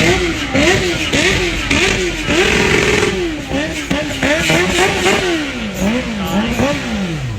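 A high-performance car engine revved over and over in quick blips, rising and falling about once or twice a second. It holds high once near the middle, then drops back down near the end.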